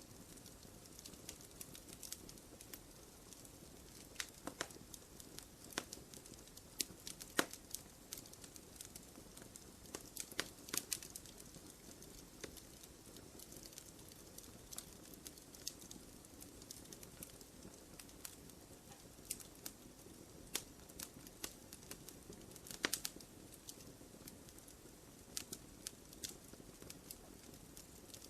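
Wood fire crackling in a fireplace: irregular sharp pops and snaps over a low steady hiss of burning, with a few louder pops scattered through.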